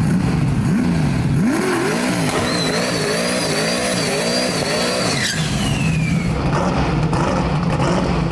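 Turbocharged drag race car accelerating hard, its engine pitch climbing and wavering up and down over a few seconds, with a high turbo whistle that glides down as the run ends. A steady low engine drone is there before and after.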